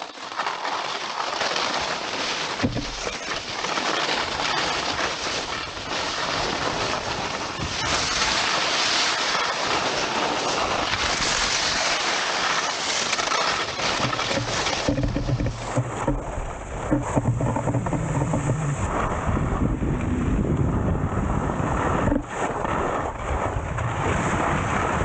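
Steady rushing noise of wind buffeting the microphone outdoors on the mountain, with a low rumble joining about fifteen seconds in.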